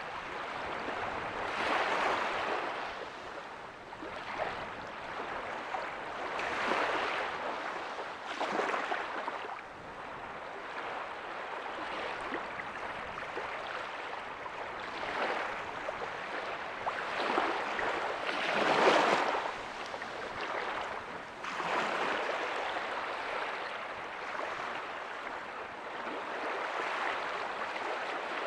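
Waves breaking softly on a beach: a steady wash of surf that swells and falls every few seconds, loudest about two-thirds of the way through.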